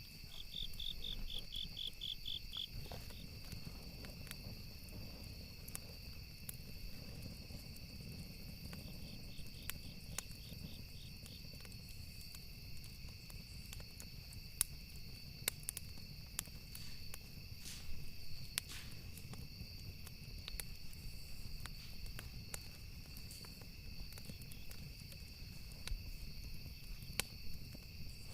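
Campfire ambience: wood fire crackling with scattered sharp pops and a low steady rumble, under continuous cricket chirping. A faster pulsing insect trill joins briefly near the start and again about nine seconds in.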